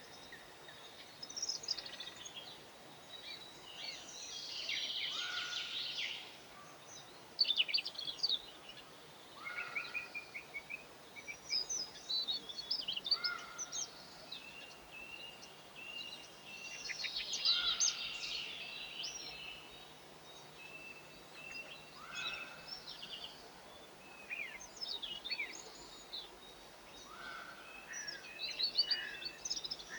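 Several small songbirds chirping and singing, with overlapping short calls and trills and a short repeated note every few seconds, over a faint steady background noise.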